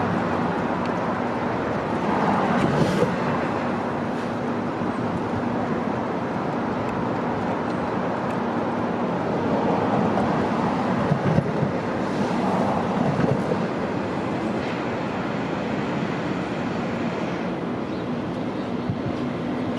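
New York City Subway train running on the tracks: a steady rumble with a faint steady hum and a few clicks from the wheels.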